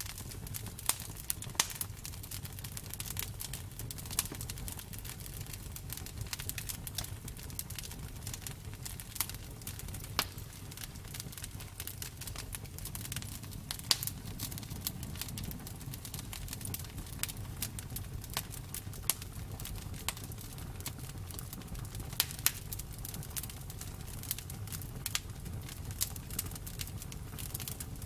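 Campfire burning: wood crackling with frequent irregular sharp pops over a steady low rumble.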